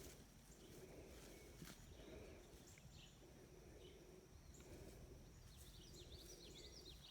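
Near silence: faint outdoor ambience, with a few soft clicks and a quick run of faint high chirps near the end.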